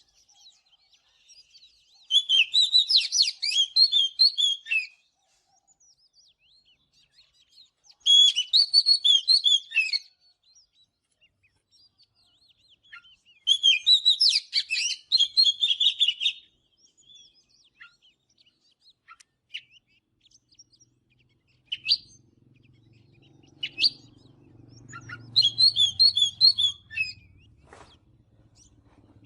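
Oriental magpie-robin singing: four bursts of rich, fast, varied whistled phrases a few seconds apart, with scattered single notes between them.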